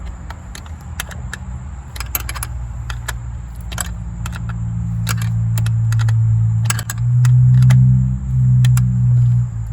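Scattered metallic clicks and clinks of hand tools and ignition-coil parts being handled in the engine bay, over low background music that swells from about four seconds in and is the loudest sound near the end.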